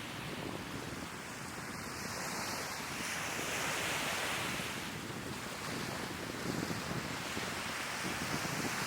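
Sea waves washing onto the shore, swelling and easing, louder from about three seconds in, with wind rumbling on the microphone.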